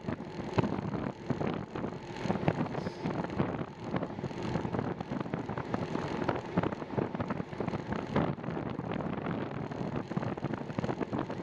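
Wind buffeting the microphone of a camera carried on a moving bicycle, an unsteady rushing with frequent irregular gusts and knocks.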